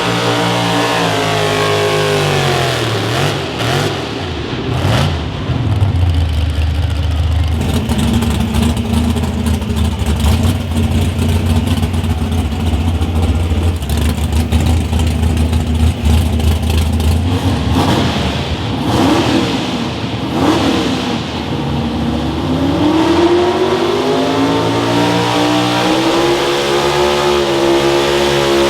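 Pulling vehicle's engine, loud: the revs fall over the first few seconds, run low and steady with some clatter through the middle, then climb again after about twenty seconds and hold high.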